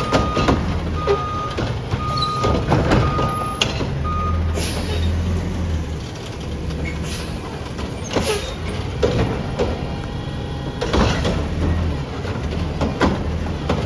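Recycling garbage truck's diesel engine running, with its reversing alarm beeping about once a second for the first four seconds. Knocks and clanks come throughout, and there are a couple of short hisses.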